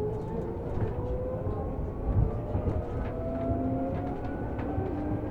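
Seibu New 2000 series electric train heard from on board, its VVVF inverter traction motors whining in several parallel tones that rise steadily as the train accelerates, over a low rumble of wheels on rail. About three seconds in, the whine steps down and starts climbing again.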